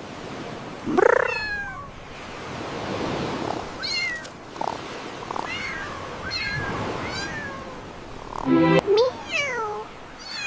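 Cats meowing and mewing: a long falling meow about a second in, a run of short high mews in the middle, and a louder group of meows with falling pitch near the end.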